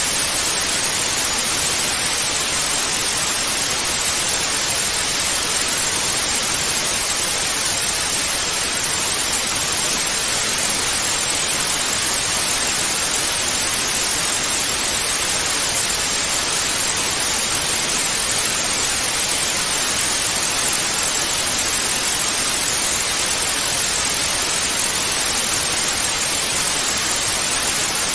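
Analogue television static: a steady, even hiss of white noise, brightest in the high end, with no change in level.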